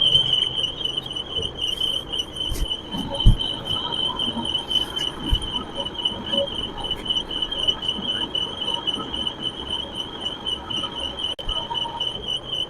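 An insect trilling steadily at a high pitch, with a few scattered knocks and one louder thump a little over three seconds in.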